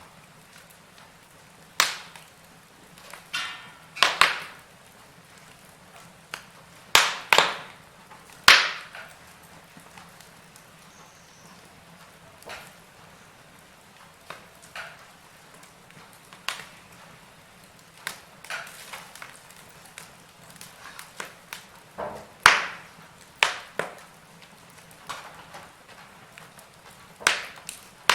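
Wood fire burning in a fireplace: irregular crackles and pops, with a handful of loud sharp snaps scattered through, over a faint steady hiss.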